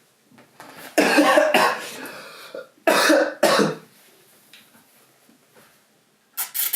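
A person coughing hard in two bouts, the first longer than the second. A short clatter of sharp clicks follows near the end.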